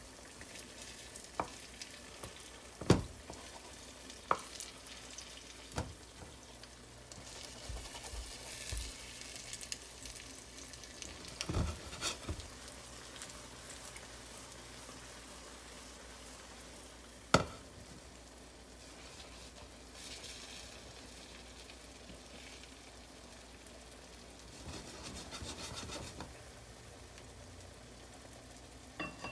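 Beaten egg with chopped onion and bell pepper sizzling in a frying pan while a wooden spoon stirs and scrapes it. Now and then the spoon gives a sharp knock against the pan.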